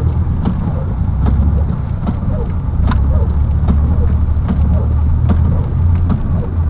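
Car engine and tyres driving hard through deep snow, heard from inside the cabin: a steady low rumble with frequent knocks and clatters as the car pushes its way clear after being stuck.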